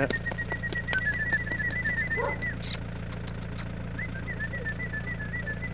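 Small hatchback's engine idling steadily, with a rapid run of high chirps over it twice.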